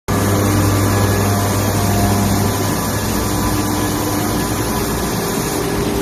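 Large Okuma LH-55N CNC lathe running with a steady mechanical hum.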